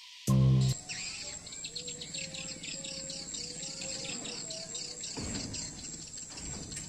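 Many swiftlets twittering in a dense, continuous stream of rapid high chirps, with a thin steady high whine behind them. A short musical chime sounds right at the start.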